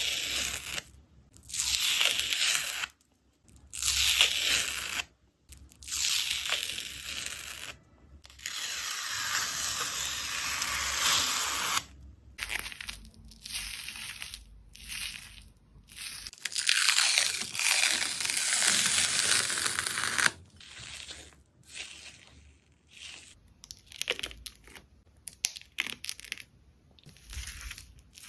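Hissing tears as a thin dried slime skin is pulled apart, in a series of strokes a second or two long with short gaps. After about twenty seconds the sounds turn shorter and quieter, like crinkling.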